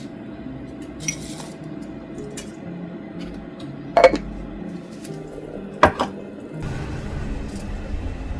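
Kitchenware being handled: a soft tap, then two sharp ringing clinks of dishes or utensils about two seconds apart, followed by a low rushing noise near the end.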